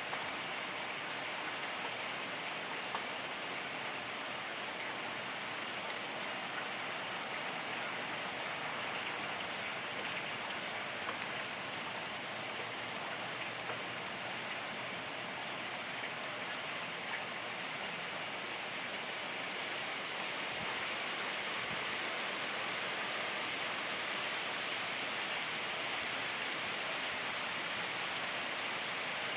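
Steady rain falling: an even hiss with a few faint, scattered drop ticks.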